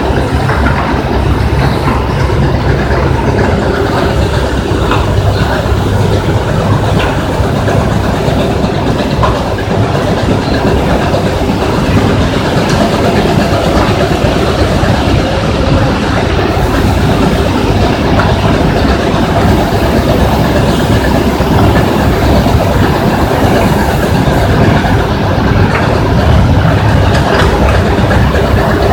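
Rock crusher running, a loud steady rumble with a dense rattle of stone and metal.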